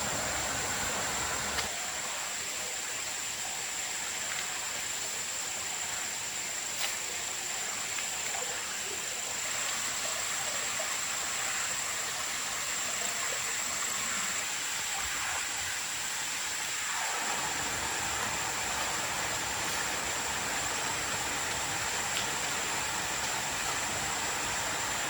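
Steady rushing noise of water in the forest, with a thin, high, steady tone running above it.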